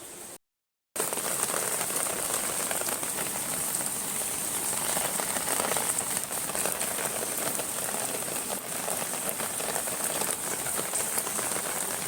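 Steady rain falling, a dense patter of many drops. It cuts to silence for about half a second near the start, then resumes.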